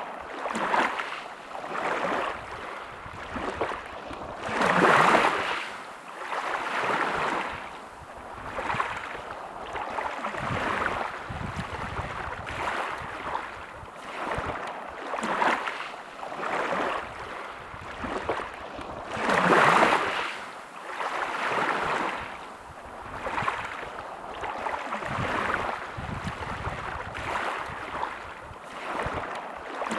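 Sea waves washing onto the shore, a hissing wash that swells and falls back every second or two, with two bigger waves breaking about five seconds in and near the twenty-second mark.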